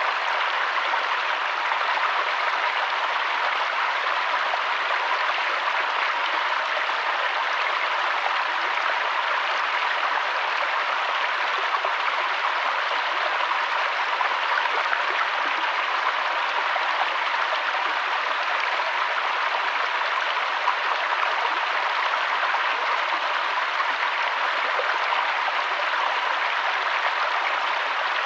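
Mountain waterfall and stream rushing steadily: an even, unbroken hiss of running water.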